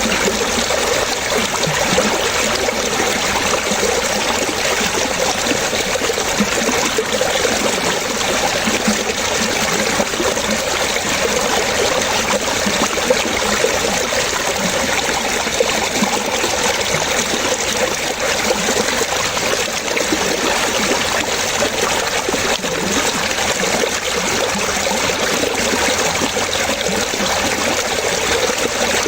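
Water trickling and splashing in a steady, unbroken flow, like a small stream running over stones.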